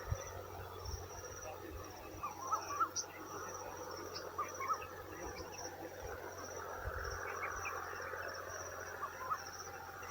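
Insects chirring in a steady, high-pitched pulsing trill, with short faint chirps scattered through it and an occasional low rumble.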